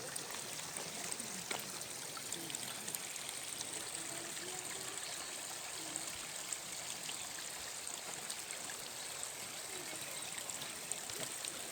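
Stream water running steadily, an even, unbroken rushing.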